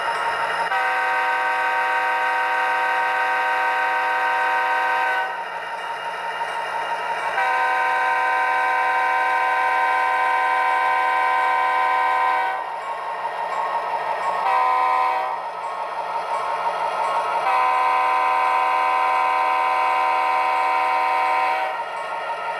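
Sound-decoder diesel locomotive horn from an HO-scale SD90MAC model with a Tsunami 2 decoder, played through the model's small speaker: a multi-note chord blown long, long, short, long, the grade-crossing signal, over the steady sound of the locomotive's engine.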